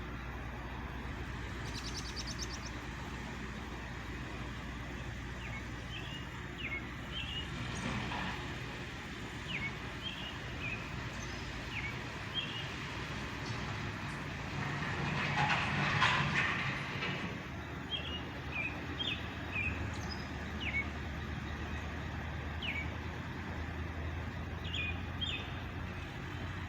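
Backhoe's diesel engine running steadily at a low rumble, with a louder rush of noise about halfway through, while small birds chirp repeatedly.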